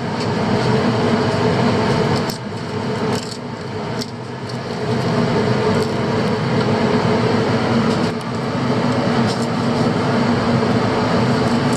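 Fishing boat's engine running with a steady low drone, with a few faint knocks over it.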